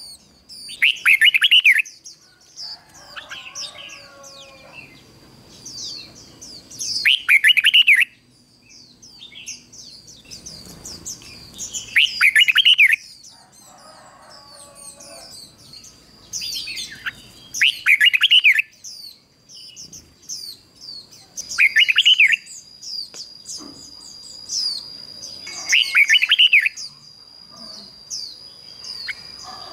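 Red-whiskered bulbul singing: short, loud warbling phrases every four to five seconds, with many fainter high chirps between them. A steady high tone runs underneath from about a third of the way in.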